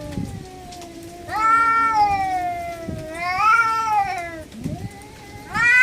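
Two stray cats yowling at each other in a fight standoff: long, wavering wails that rise and fall in pitch. Loud yowls come about a second in and again about three seconds in over a lower, drawn-out moan, and a new yowl starts near the end.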